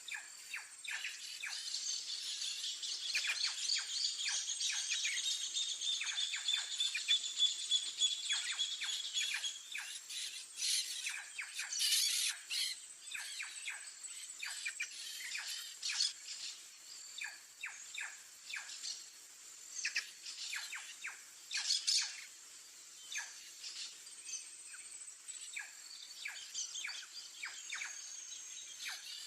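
White-tailed jay calling among a chorus of other birds, with many short high chirps and several louder sharp calls, over a steady high insect buzz.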